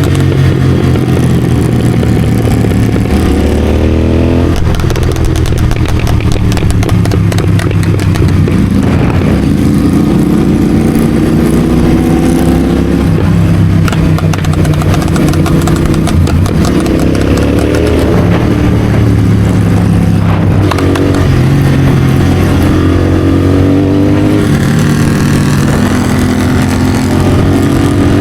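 Royal Enfield Continental GT650's parallel-twin engine running through an aftermarket Red Rooster exhaust, CODE6-tuned, riding under load. The pitch rises and drops back several times as it accelerates and shifts gears.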